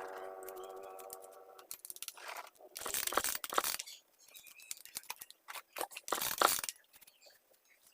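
Cleaning and handling noises on a mini chainsaw: scattered clicks and rustling, with two longer hissing, scraping bursts about three and six seconds in. A steady held tone fades out in the first two seconds.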